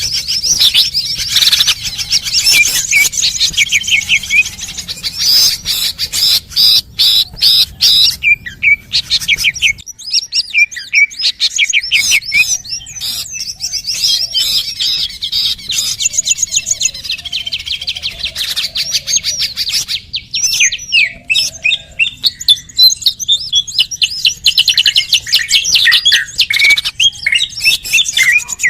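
Bird-lure recording of small birds chirping and twittering: dense, rapid, overlapping high calls with sharp clicks mixed in, easing for a moment about a third of the way through before picking up again.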